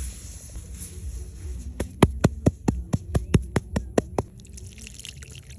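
A quick, even series of about a dozen sharp taps or knocks, around five a second, starting about two seconds in and stopping about four seconds in.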